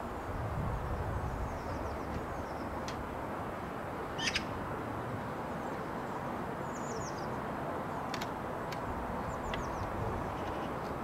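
Small birds chirping faintly, a few short high notes that slide downward, scattered over steady low outdoor background noise. A sharp tick sounds about four seconds in, with a few fainter ticks near the end.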